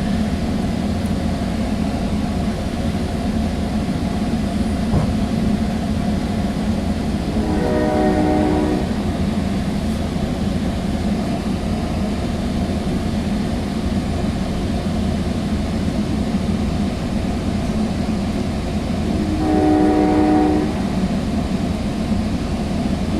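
Sound Transit Sounder commuter train running, heard from inside a passenger coach: a steady low rumble. The locomotive horn sounds twice, once about eight seconds in and again near twenty seconds, each blast about a second and a half long.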